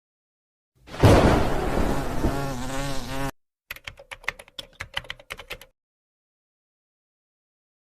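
A buzzing sound for about two and a half seconds, then a quick run of a dozen or so light clicks, each set starting and stopping abruptly.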